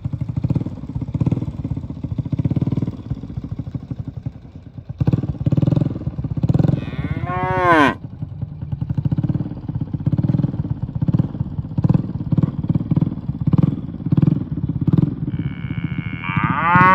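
Cattle mooing: one loud call about seven seconds in that drops sharply in pitch at its end, and another starting near the end, over a steady low rumble.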